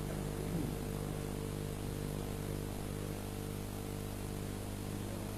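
Steady electrical hum and hiss from the mosque's sound and recording system, held through a pause in the recitation.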